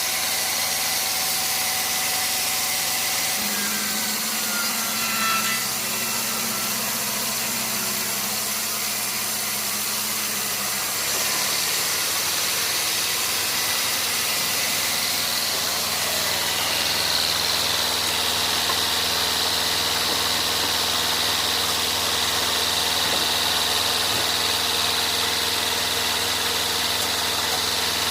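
Sawmill machinery running steadily, with a low engine-like hum under a high hiss. A high steady whine joins about 17 seconds in and holds.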